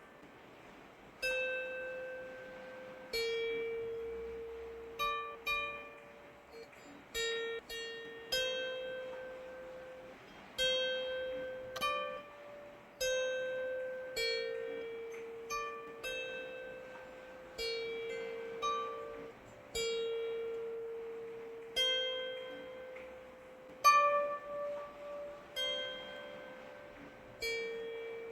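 A slow melody of plucked strings: single notes, sometimes two or three in quick succession, ring out and die away every second or two. Under them is a soft, steady hiss of rain.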